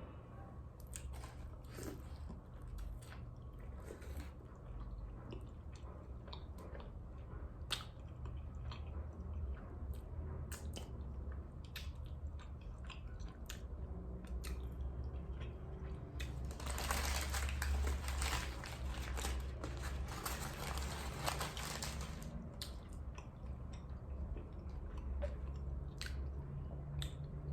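Close-miked chewing and biting of birria tacos, with many short wet mouth clicks, and a stretch of louder crunching a little past the middle that lasts several seconds.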